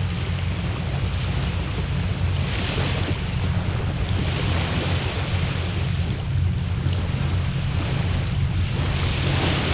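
Campfire burning in a fire pit while wind rushes over the microphone in a steady low rumble, with hissing gusts that swell and fade about three times and a few faint crackles. A steady high-pitched tone runs underneath.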